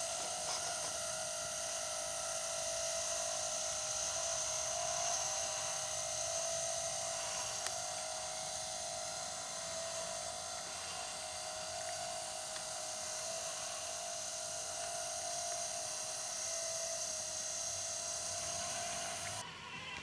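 Small electric motors of a 1:16 RC model combine harvester running with a steady high whine. The whine cuts off suddenly near the end.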